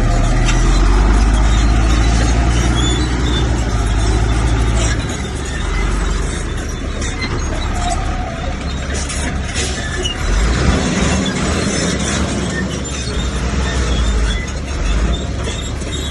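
Komatsu bulldozer's diesel engine running hard, with metallic clanks and knocks; the engine is heaviest for about the first five seconds, then eases off.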